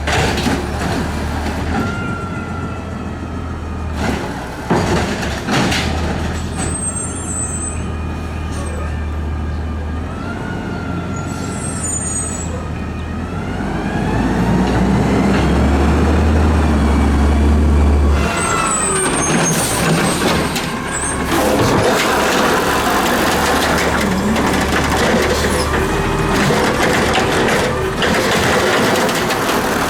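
Garbage truck's diesel engine running, its pitch rising partway through, with a couple of brief high squeals. Louder mechanical noise fills the last third.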